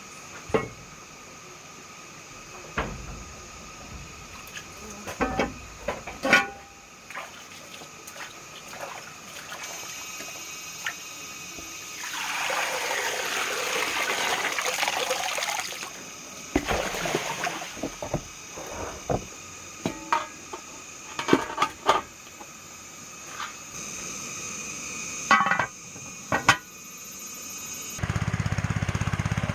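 Scattered knocks and clatter, with a few seconds of rushing, pouring water about halfway through; near the end a small engine starts running steadily.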